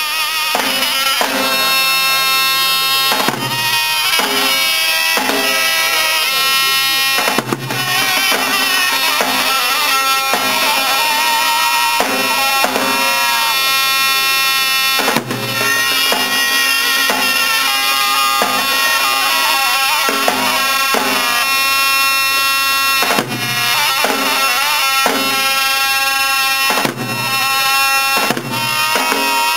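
Instrumental Turkish folk music on the bağlama: a tune played over ringing drone strings, with a steady beat of strong strokes about once a second and quicker strokes between them.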